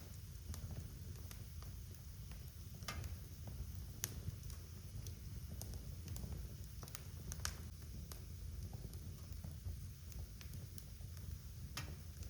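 Wood fire in a fireplace crackling: irregular sharp pops and snaps, a few of them louder, over a steady low rumble of the burning logs.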